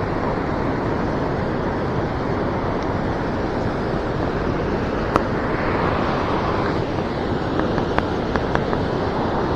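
Steady rush of flowing river water, with a few light clicks about halfway through and again near the end.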